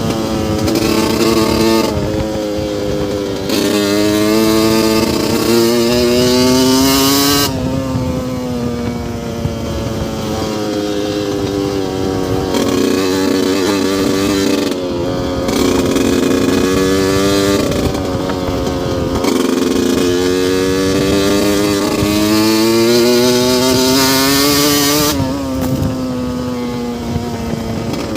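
2002 Yamaha YZ125's 125cc single-cylinder two-stroke engine revving up and down over and over. Its pitch climbs for a few seconds and then drops again, repeatedly.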